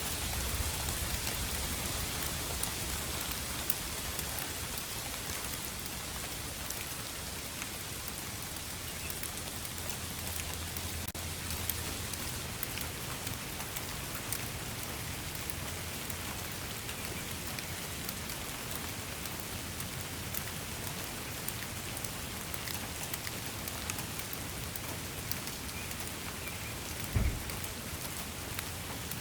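Steady rain falling, a dense hiss with many individual drops ticking on a surface. A short low thump sounds about 27 seconds in.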